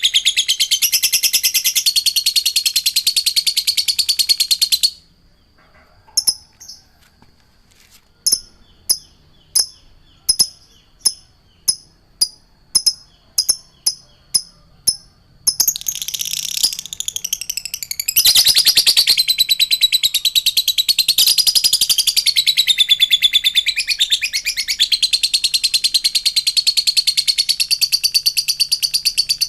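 Rapid, high-pitched songbird chattering from a masteran (bird-song training) recording. About five seconds in it switches to a sparser track of short, sharp call notes repeated about twice a second. Dense chattering song returns near the middle and grows louder a few seconds later.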